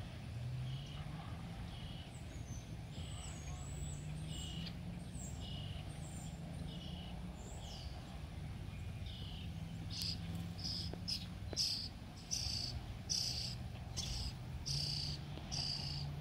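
Songbirds singing in a garden: short repeated chirps about once a second, turning louder and quicker, about two a second, some ten seconds in, over a low steady hum.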